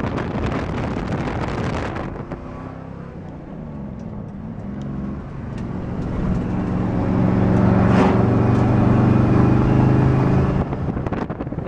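1964 Chevrolet Impala SS's 327 V8 pulling under acceleration through its 4-speed. About halfway in, the engine note rises and grows louder, then holds strong before dropping off near the end as the throttle eases or a gear changes.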